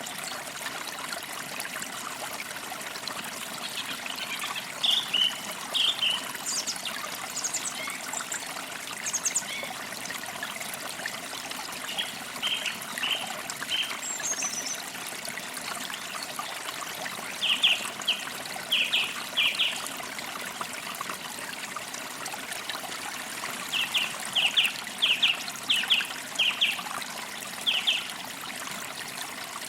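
Forest creek water trickling and flowing steadily, with birds chirping over it in short runs of quick, high notes several times.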